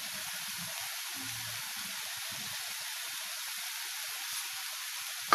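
Grated-carrot palya sizzling steadily in the pan, an even hiss.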